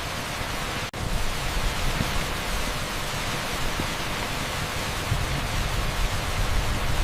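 Torrential rain pouring on an asphalt street: a dense, steady hiss with a brief cut-out about a second in.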